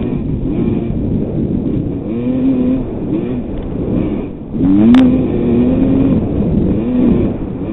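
1988 Kawasaki KX250 two-stroke motocross engine revving up and down again and again as the throttle is worked through the mud. A sharp knock about five seconds in, after which the engine is louder.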